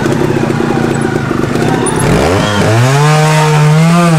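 Trial motorcycle engine running at low revs with a pulsing beat, then revved sharply about two seconds in and held at high revs before dropping off at the very end.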